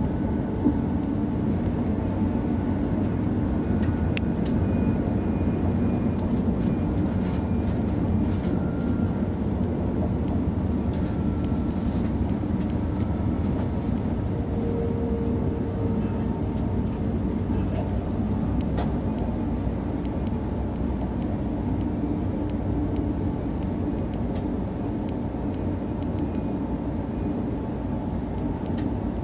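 Interior running noise of an ICE 3 high-speed electric train, heard from the front passenger seats behind the cab: a steady rumble with a few faint clicks and thin high tones over it.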